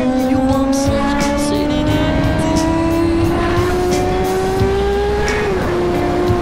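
Suzuki GSX-R1000 inline-four engine held at high revs, its pitch climbing slowly for about five seconds and then dipping slightly near the end, with a song's beat over it.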